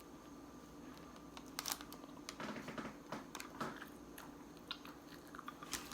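Someone chewing a bite of a Taco Bell Crunchwrap close to the microphone, with scattered soft crunches and mouth clicks.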